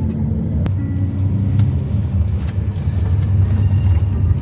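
Car cabin noise while driving: a steady low rumble of engine and tyres, with a single sharp click about half a second in.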